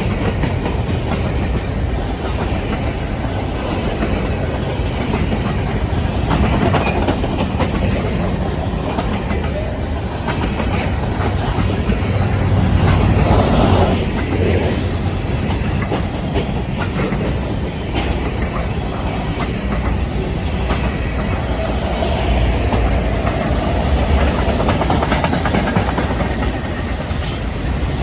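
A freight train's cars rolling past, with a steady rumble and the clickety-clack of wheels over the rail joints, and a faint wheel squeal in the later part.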